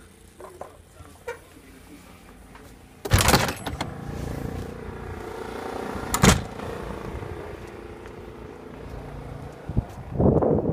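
Electric motor of an ALZRC Devil 480 RC helicopter starting up about three seconds in and then running with a steady whine, with loud bursts of wind on the microphone about three and six seconds in and again near the end.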